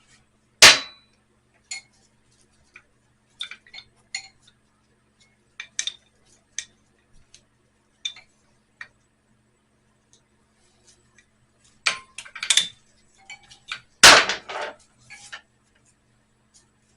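Scattered metal clinks and knocks of wrenches and loose engine-mount hardware being handled while a motorcycle engine is worked free of its frame. A sharp clank comes about half a second in, and louder bursts of clatter come near twelve and fourteen seconds in, over a faint steady hum.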